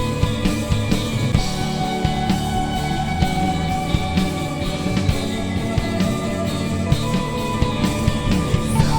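Rock band playing live: guitars holding long notes over a steadily beating drum kit, with no vocals.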